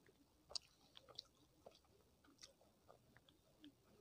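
Faint, scattered wet clicks and smacks of a person chewing a mouthful of rice, mixed with the soft squish of bare fingers pressing rice together on a plate, picked up close on a clip-on microphone.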